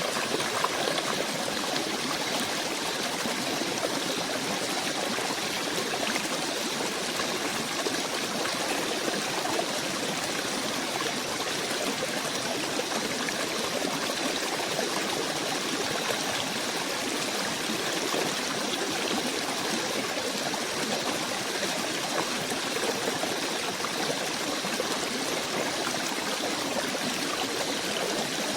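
Small stream running over stones, a steady even trickling.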